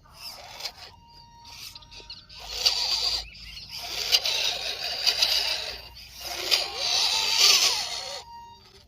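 Radio-controlled scale truck's small electric motor and gearbox running in three bursts of a few seconds each, with a rushing noise of the tyres working over rough ground.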